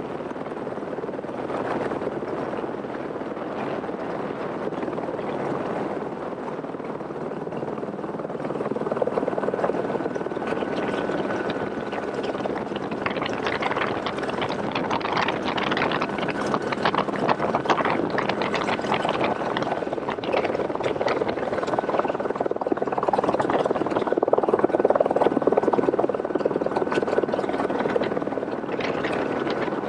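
Helicopter in flight: steady rotor and engine noise with a faint thin whine, somewhat louder from about a quarter of the way in.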